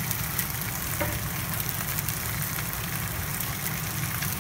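Flour-coated lobster pieces and spring onion sizzling in hot oil in a stainless-steel sauté pan: a steady sizzle with scattered small crackles and pops, over a low steady rumble.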